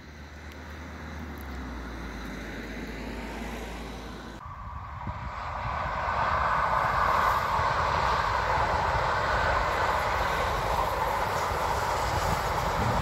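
Electric passenger train running past at a distance: a steady rush of wheels on rail that swells from about five seconds in and then holds, with a low uneven rumble beneath it.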